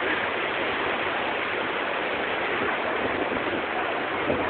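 Steady rushing noise with no distinct crackles or knocks.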